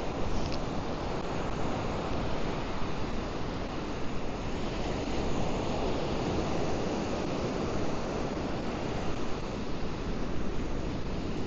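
Pacific Ocean surf breaking and washing up the beach, a steady rushing noise.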